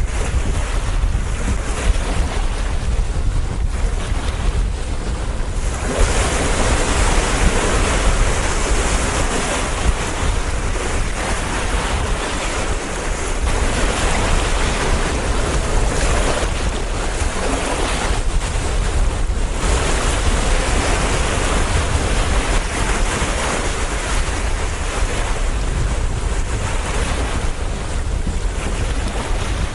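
Strong wind blowing over the microphone, a heavy constant rumble with a hiss that swells in gusts, the first big gust about six seconds in, over waves washing on a large lake.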